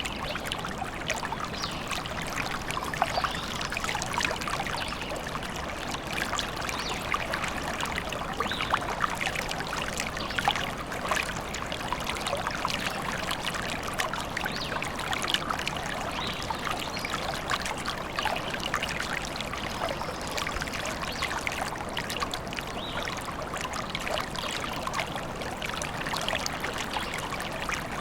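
A small stream trickling and babbling steadily, with many small splashes of water over stones.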